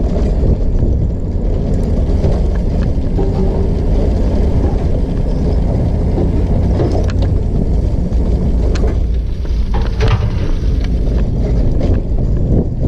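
Steady low rumble of riding a trike along a campground road: road and wind noise on the microphone, with a few clicks and rattles from the trike.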